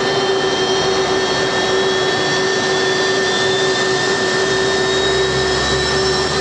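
Military jet engines running on the ground during engine start, a steady loud whine made of several held tones. A deeper rumble builds about two-thirds of the way in, and near the end a few tones start to rise as an engine spools up.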